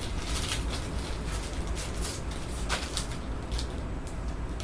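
Rustling and crinkling as trading card packs and cards are handled, in a few short bursts over a steady low hum.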